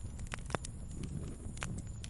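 Wood fire in a fireplace crackling: irregular sharp pops and snaps over a low steady rumble, with the loudest pop about half a second in.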